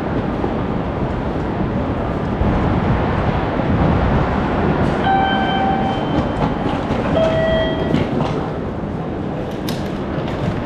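Train running with a steady rumble and rattle. About five seconds in, a two-note electronic chime sounds, the second note lower than the first.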